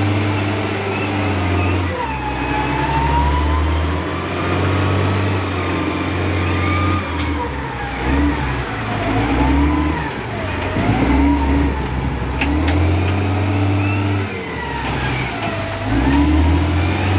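Loader's diesel engine revving up and dropping back every few seconds as it works, with a wavering high whine that rises and falls alongside the engine speed.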